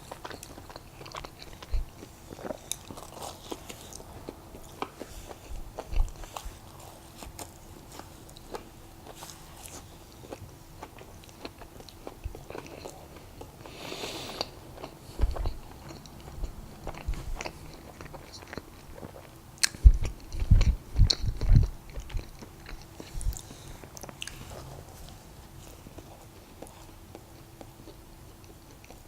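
Close-up mouth sounds of a person biting and chewing Krispy Kreme donuts: soft wet chewing with scattered small clicks, and a cluster of louder low thumps about twenty seconds in.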